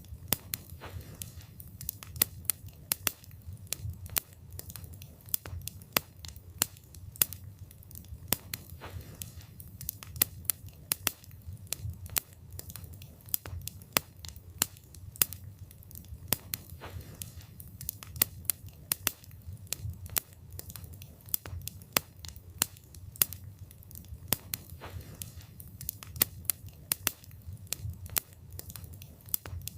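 Wood fire burning with a low rumble of flames and dense, irregular crackling and popping of the burning wood.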